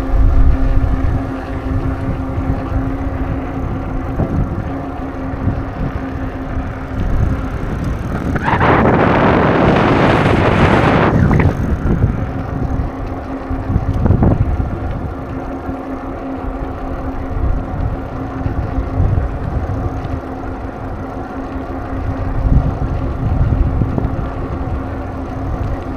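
Riding on a bicycle: low wind buffeting on the microphone over a steady hum. About a third of the way in, a louder rush of noise lasts some three seconds.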